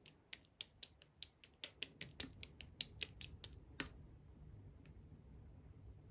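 Blue clear slime being pressed and worked by hand, making a quick series of sharp popping clicks, about five a second, that stop about four seconds in.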